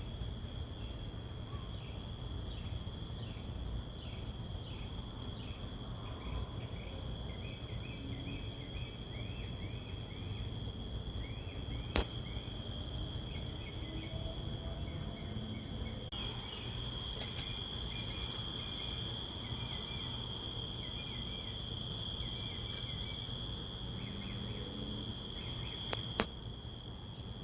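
A steady high cricket trill, with a bird at night repeating short, quick, falling chirps in runs. Two sharp clicks, one about halfway and one near the end.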